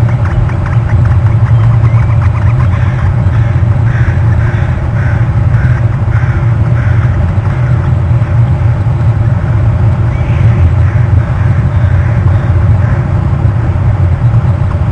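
A woodpecker making short repeated sounds, with a run of about two a second a few seconds in, over a loud, steady low rumble.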